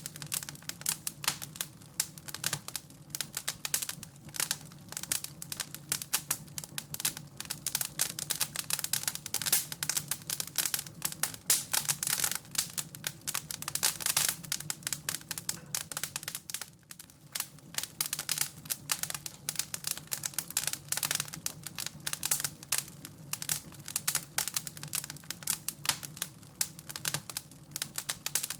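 Wood fire in a fireplace crackling steadily, a dense run of irregular snaps and pops.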